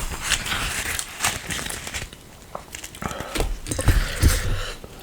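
Close-miked chewing and mouth sounds of someone eating, with scattered small clicks and a few louder bursts between about three and four and a half seconds in.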